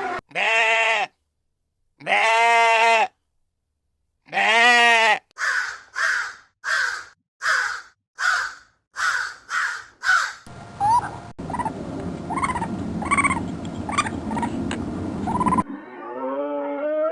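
A run of cut-together farm-animal calls: three long, wavering bleats in the first five seconds, then about nine short, harsh calls in quick succession. After that comes a noisier stretch with short calls over a steady background hum, and near the end a long call that rises in pitch.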